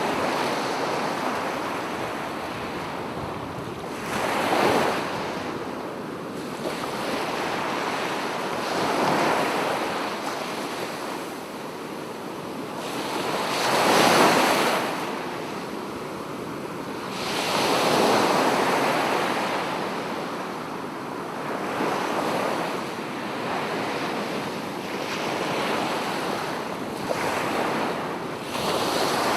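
Sea waves breaking and washing up a beach, swelling and falling back every four to five seconds, with the biggest surge about fourteen seconds in.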